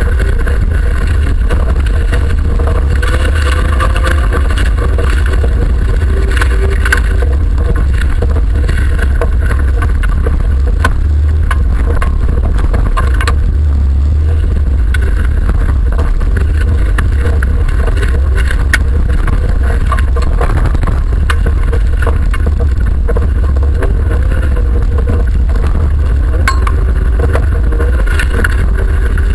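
Engine of an autocross car over 1600 cc running hard under racing load, heard from inside the cabin: loud and steady with a heavy low rumble, its pitch rising and falling. Scattered knocks and rattles sound through it.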